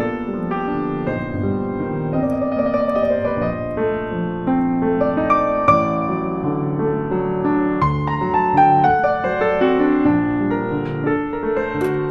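Background piano music: a gentle, slow-paced piece.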